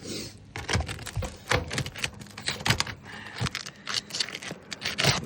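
Asphalt roof shingles being pried up and unsealed from their adhesive strip, crackling and scraping in a rapid, irregular run of sharp clicks. The crackle is the shingles cracking as the seal lets go.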